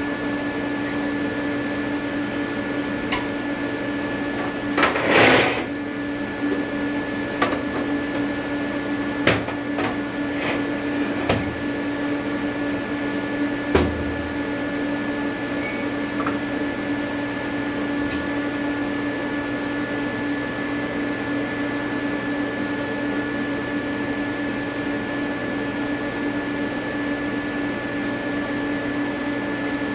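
AC TIG welding arc on aluminium from an Everlast 325EXT set to advanced square wave at 100–150 Hz, giving a steady electrical buzz. A few short crackles break in, the loudest about five seconds in.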